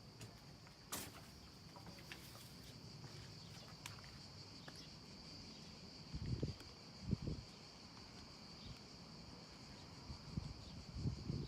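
A steady high-pitched insect drone from crickets or cicadas, with a few low thuds around the middle and again near the end.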